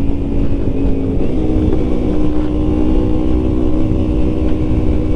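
Motorcycle engine running at a steady cruising speed, its pitch stepping up slightly a little after a second in, with wind rumbling on the microphone.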